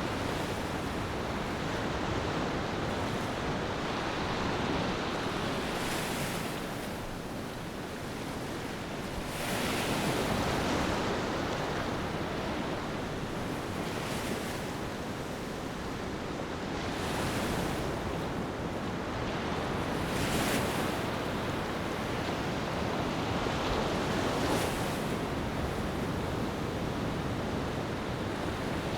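Ocean waves washing onto a beach, a steady surf hiss that swells with each breaking wave every three to four seconds.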